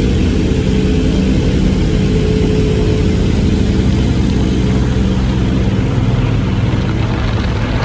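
Automatic car wash equipment running around the car, heard from inside it as a steady loud rumble with an even hiss.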